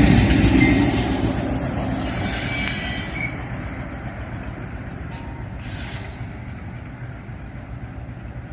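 Freight train cars rolling along the rails and fading as they move away, with brief thin wheel squeals in the first three seconds or so.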